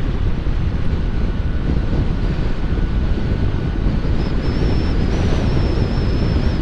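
Heavy wind noise buffeting a microphone inside a motorcycle helmet while riding: a loud, steady low rumble, which the rider puts down to air leaking in on the helmet's right side. A faint, wavering high whine comes in about four seconds in.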